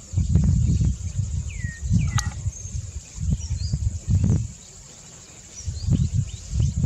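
Outdoor nature ambience: a few short bird chirps, including a falling call about a second and a half in, over a steady high insect drone. Irregular low rumbles come and go through it and are the loudest sound, with a quieter lull near the end.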